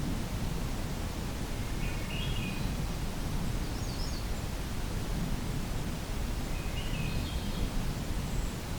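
Faint, distant song of a Swainson's thrush: two short phrases that climb upward, about five seconds apart, with a few high notes between. A steady low outdoor rumble lies under them and is louder than the song.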